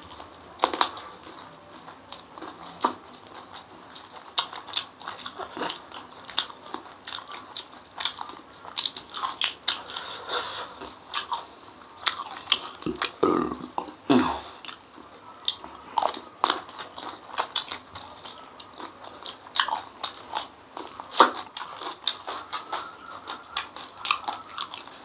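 A person chewing and biting spicy braised chicken feet close to the microphone, with many short, irregular mouth clicks and smacks.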